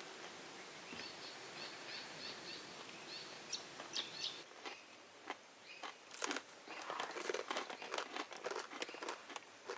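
A bird gives a quick series of short, high chirps, then from about halfway through there is a run of crinkling, rustling and clicking handling noises.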